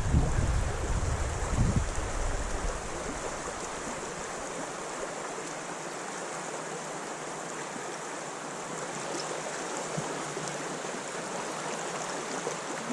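Creek water running steadily. Wind buffets the microphone with a low rumble for the first few seconds, then eases off.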